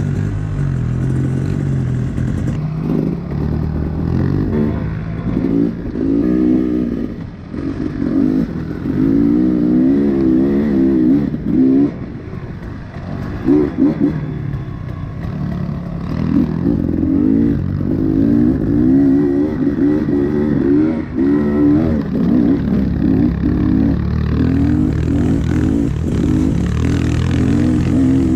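Honda CRF110F pit bike's small single-cylinder four-stroke engine revving up and down as it is ridden, its pitch rising and falling with the throttle and easing off briefly a few times.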